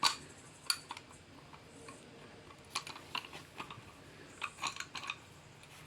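Scattered light clicks and knocks of metal tools being handled, a sharp one at the start and small clusters around the middle and near the end, as a C-clamp is fetched and set up on a brake caliper.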